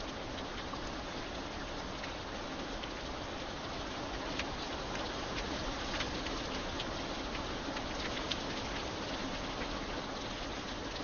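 Steady rain falling, with scattered individual drops ticking sharply on a hard surface over the even patter.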